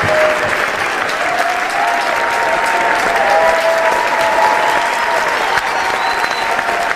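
Large audience applauding steadily, with voices in the crowd cheering over it in long held shouts.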